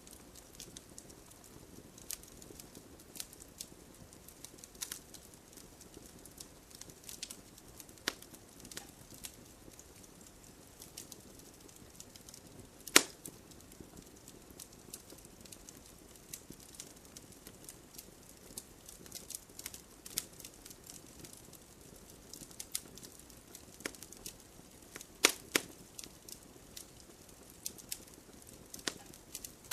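Wood fire crackling, with a soft steady hiss under frequent sharp pops and snaps; one loud snap comes about 13 seconds in and a close pair about 25 seconds in.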